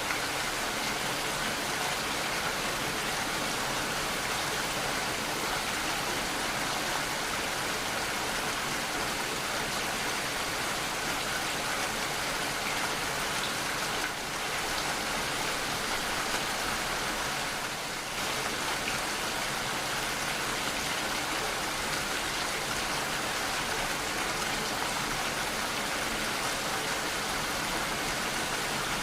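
Steady rainfall, an even hiss of many drops with no thunder, dipping slightly in level twice midway.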